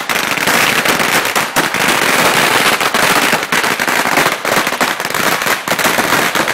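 Bangers going off in a rapid, unbroken barrage of loud sharp cracks, many overlapping each second.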